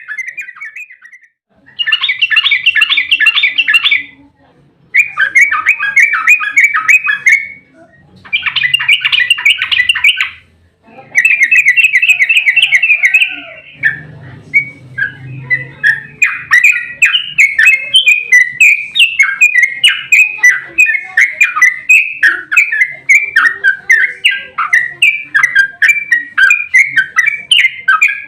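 Yellow-vented bulbul singing its rapid rolling 'ropel' song: loud bursts of quick, chattering notes of two to three seconds each with short pauses between, then an unbroken run of fast notes from a little past halfway through.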